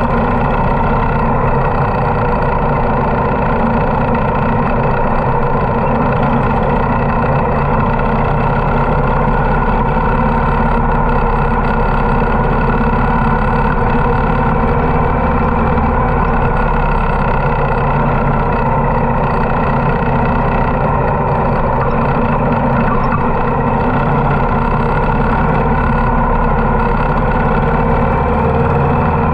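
Harley-Davidson motorcycle engine running at a steady pace, an even low rumble that does not rise or fall.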